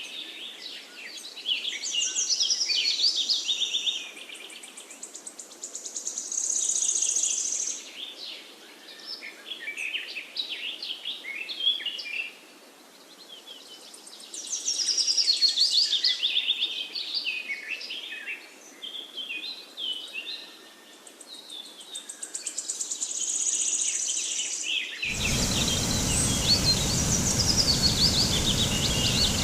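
Several songbirds chirping and singing in quick, overlapping trilled phrases, with occasional high buzzy trills. Near the end a steady rushing noise cuts in abruptly, and the birds keep singing over it.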